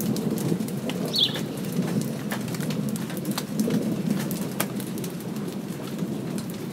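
Light rain falling, with scattered drops ticking on a hard surface over a low, continuous rumbling noise. A bird gives one short, falling high chirp about a second in.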